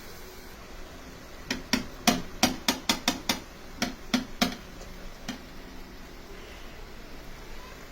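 Knife chopping on a cutting board: a quick, slightly uneven run of about a dozen sharp knocks, roughly four a second, with one last chop a moment later.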